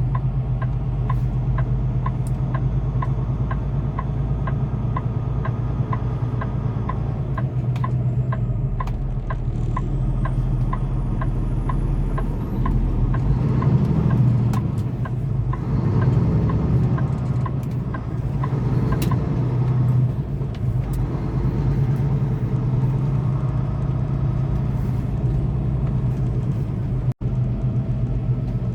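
Semi-truck engine and road noise heard from inside the cab while driving: a steady low drone. For about the first twelve seconds there is also a light, evenly spaced ticking.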